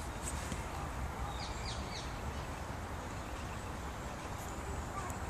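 Outdoor ambience: a steady low rumble with a few short, high, falling bird calls, three in quick succession about one and a half to two seconds in.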